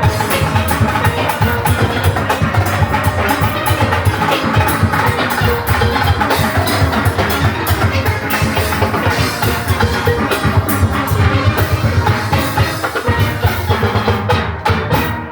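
A steel orchestra playing live: many steelpans over drum-kit and percussion rhythm, stopping right at the end as the piece finishes.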